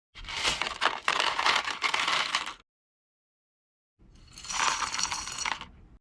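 Packaging being handled and unwrapped: rustling, crinkling and scraping in two short bursts, the second starting about four seconds in, each cut off abruptly.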